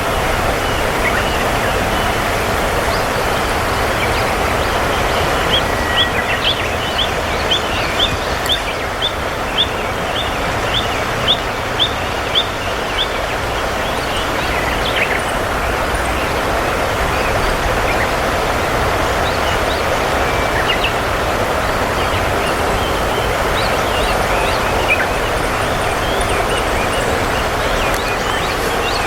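Steady rush of river water, with a bird calling a run of about fifteen short, sharp, high notes at roughly two a second for about seven seconds, starting some five seconds in.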